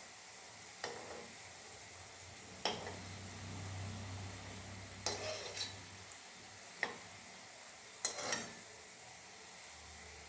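Langcha pieces frying slowly in moderately hot oil with a faint, steady sizzle, while a spoon knocks against the pan about six times as they are stirred and turned.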